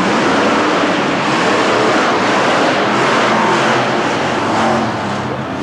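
Monster truck engine running loud and steady, easing off slightly near the end.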